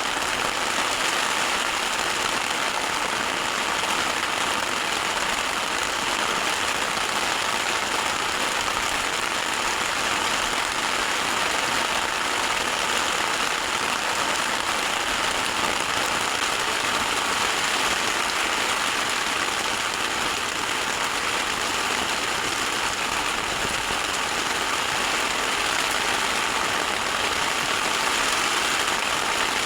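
Heavy rain pouring down steadily, a dense, even hiss without a break.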